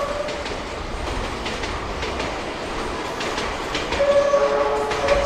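The E001-series TRAIN SUITE Shiki-shima pulling away over the station pointwork, its wheels clacking irregularly over rail joints and switches with a low rumble. From about four seconds in, a melody of a few held horn notes sounds: the train's music horn.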